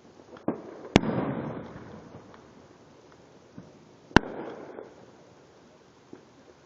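Fireworks going off: a small pop, then two sharp, loud bangs about three seconds apart, each trailing away over about a second.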